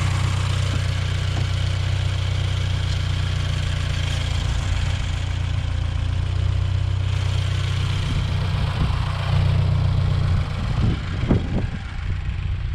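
Turbocharged Scion FR-S flat-four engine idling steadily with the hood open. A few light knocks near the end.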